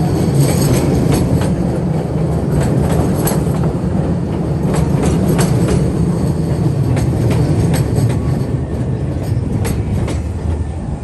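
CTA Red Line rapid transit train pulling into a station: a steady rumble with many sharp wheel clicks over rail joints, getting quieter near the end as it slows.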